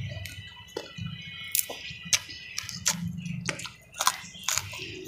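Close-miked mouth sounds of eating rice and salted fish by hand: chewing and lip smacks, heard as an irregular string of sharp wet clicks.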